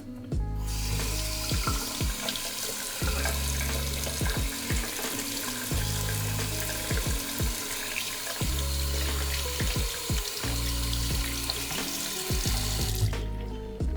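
Water running from a tap into a sink in a steady stream; it comes on just after the start and shuts off about a second before the end. Background music plays underneath.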